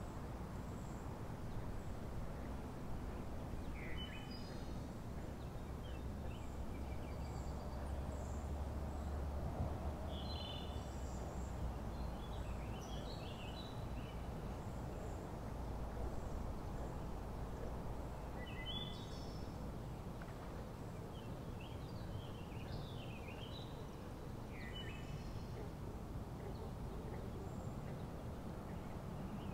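Open-air ambience: a steady low rumble and hiss, with birds chirping off and on in short high calls several times.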